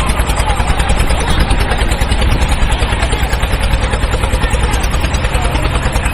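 Tractor diesel engine running steadily with an even, rapid putter.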